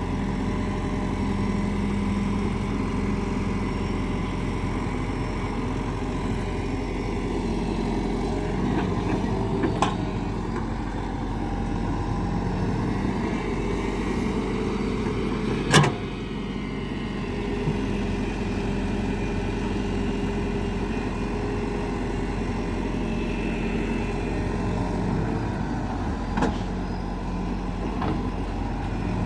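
A vehicle engine running steadily, with one sharp knock about halfway through and a couple of fainter clicks.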